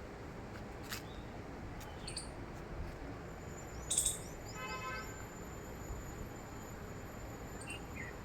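Birds chirping over a steady background hiss: a few short high calls, the loudest about four seconds in, followed straight after by a brief rapid buzzy trill, and two more short calls near the end.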